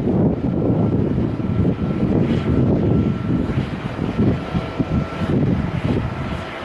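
Jet airliner's engines running loud at takeoff, a dense rumble with a faint steady whine above it, with strong gusty wind buffeting the microphone.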